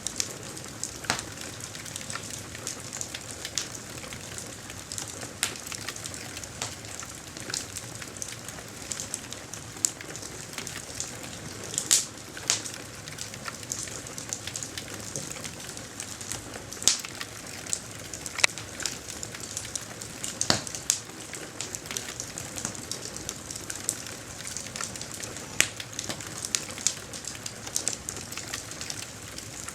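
Campfire burning: a steady hiss with irregular sharp crackles and occasional louder pops.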